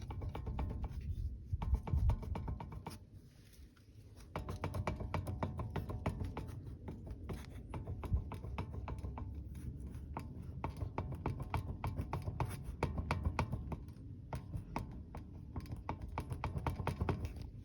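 Loose guides knocking: a fast, irregular run of sharp knocks and rattles over a low rumble, easing off briefly about three seconds in. The knock is the sign of play in the guides.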